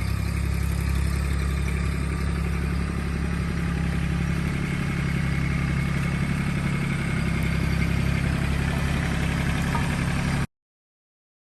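Mahindra tractor's diesel engine running steadily at a constant speed with a clattery edge, cutting off abruptly near the end.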